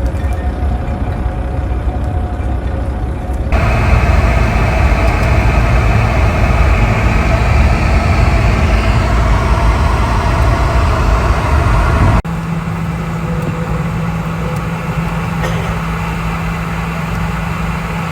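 Vehicle engines and road traffic, a steady low rumble that changes abruptly twice, at about three and a half and about twelve seconds in; a steady low hum runs through the last part.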